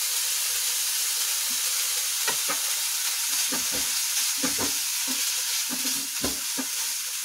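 Crumbled khoya (mawa) sizzling steadily as it roasts in a nonstick frying pan, stirred with a wooden spatula that scrapes and knocks against the pan at irregular moments.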